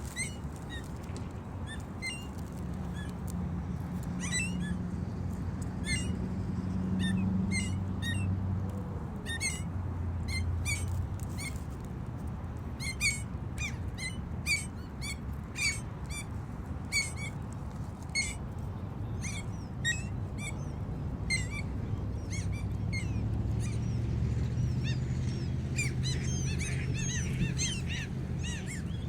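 Gulls calling over and over with short, high mewing cries, at times several a second. Under them a low steady drone swells and fades twice.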